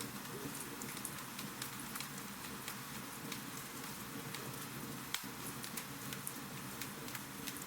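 Wood fire crackling in a fireplace: a steady hiss with irregular small pops and snaps, and one sharper pop about five seconds in.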